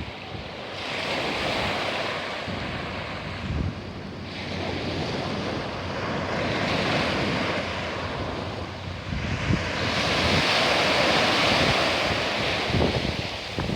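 Sea waves breaking and washing up the shore, the hiss swelling and ebbing in three surges, the last and loudest about ten seconds in. Wind buffets the microphone throughout.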